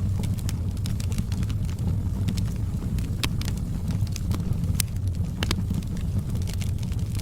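Wood fire burning: a steady low rumble with frequent sharp crackles and pops, a few louder pops around the middle.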